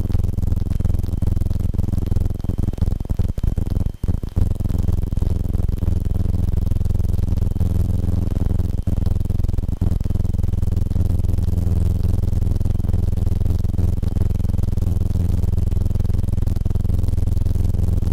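Steady drone of a Cessna 150/152's four-cylinder engine heard through the cockpit intercom as a low hum, with brief dropouts about four seconds in and again near ten seconds.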